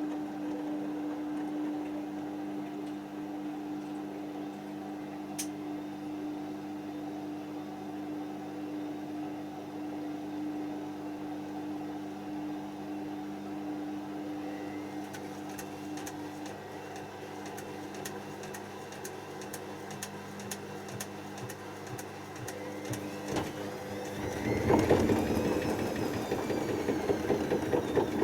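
Hoover DYN7144XD1 washing machine running a cycle: a steady motor hum fades out about two-thirds of the way through, followed by a run of regular clicks. Near the end comes a louder, noisier stretch with a pitch that rises and falls.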